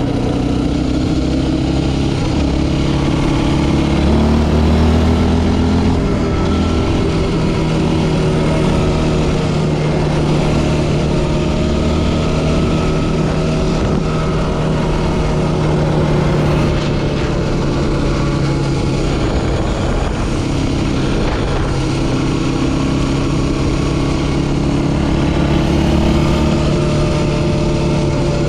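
Yamaha Raptor 700R quad's single-cylinder four-stroke engine running continuously as it is ridden, its pitch rising and falling gently with the throttle.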